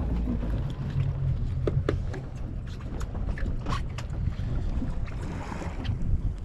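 Fishing boat running under way: a steady low rumble of engine and hull, with wind buffeting the microphone and occasional sharp splashes or knocks.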